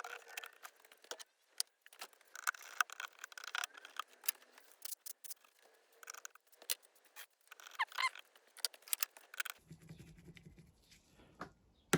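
Irregular metallic clicks, taps and scrapes of hand tools and small parts being handled while a leaking fuel fitting is taken apart to find a bad seal.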